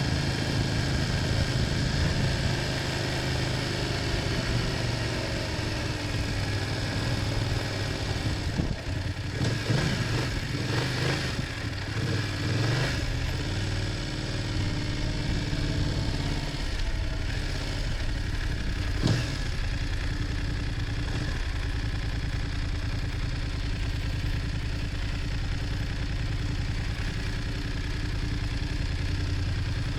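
BMW F800GS parallel-twin engine slowing: its note falls over the first several seconds, then runs steadily at low revs. A few knocks come about a third of the way in, and a sharp click a little past the middle.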